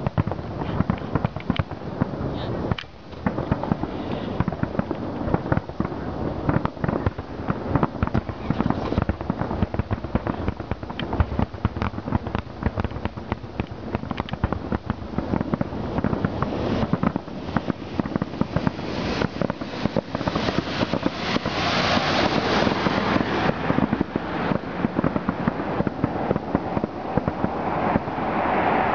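Aerial fireworks shells bursting in rapid, overlapping succession, with crackling, thickest about three-quarters of the way through.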